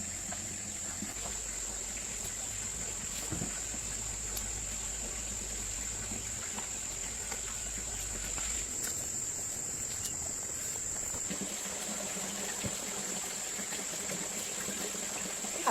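Insects making a steady high-pitched drone, with a few faint clicks.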